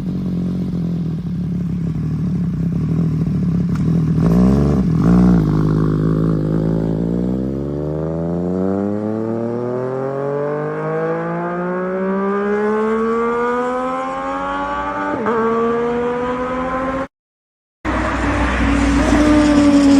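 MV Agusta motorcycle engine running through a BURNOUT full-titanium exhaust: a steady idle, a short blip of the throttle about five seconds in, then the revs climbing smoothly for about ten seconds. Near the end the sound cuts out briefly and comes back at higher revs and louder.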